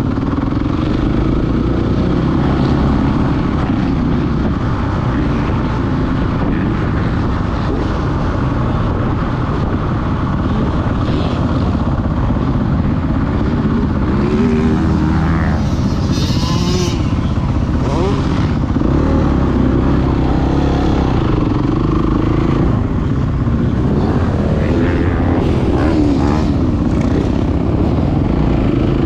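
Motocross dirt bike engine running hard, its pitch rising and falling as the throttle is worked, over a heavy low rumble.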